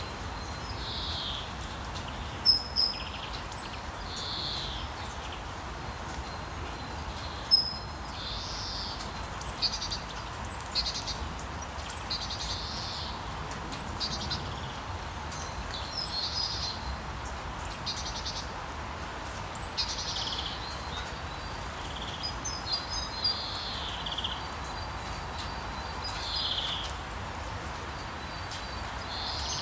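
Rainforest ambience: a steady hiss of rain with many short, high bird chirps and calls scattered throughout. About two-thirds of the way in, a thin, steady, high insect-like tone joins.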